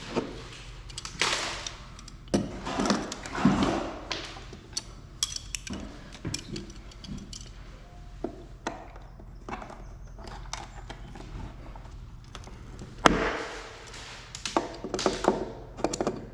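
Pliers pulling small nails out of old wooden window trim: scattered clicks, scrapes and knocks of metal on wood, with one sharper knock near the end.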